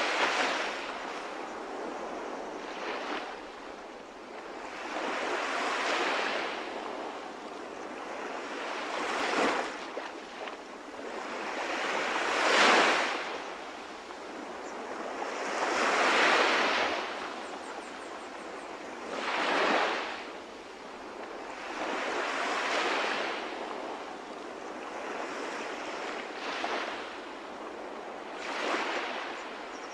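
Sea waves breaking and washing in, one swell after another about every three to four seconds, with the loudest breaks about halfway through.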